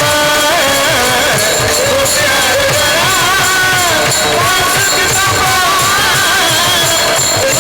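A woman singing a Marathi devotional panchapadi in a kirtan, with a melody that bends up and down over fast, steady drum strokes and jingling percussion.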